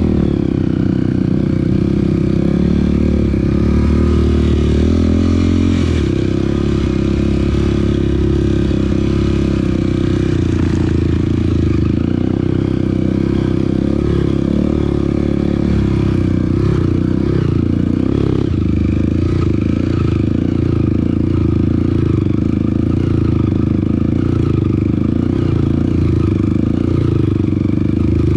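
Off-road vehicle engine running continuously while under way on a trail, its pitch shifting about six seconds in, with clatter and scraping from the rough ride.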